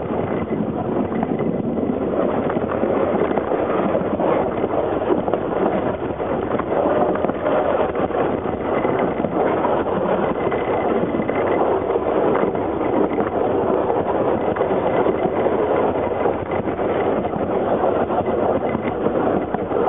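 Narrow-gauge train running, heard from the rear of the train: a steady, unbroken running noise, with wind on the microphone.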